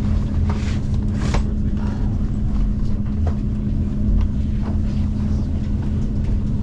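Passenger train running: a steady low rumble with a constant hum and scattered short knocks and rattles.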